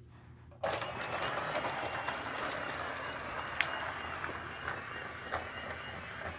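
Battery-powered toy train set switched on about half a second in, its small electric motor and wheels running steadily along the plastic track with a few light clicks.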